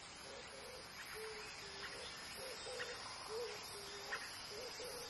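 Faint outdoor ambience: a bird gives short, low hooting calls about twice a second, with a few faint higher chirps over a soft hiss.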